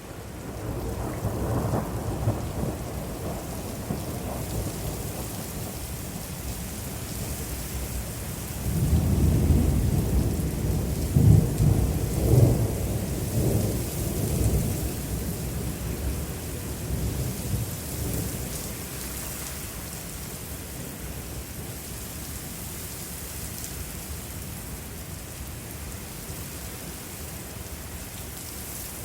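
Thunder rolling from a supercell thunderstorm over steady rain: a low rumble about a second in, then a louder, longer roll that swells and fades away, under a continuous hiss of rain.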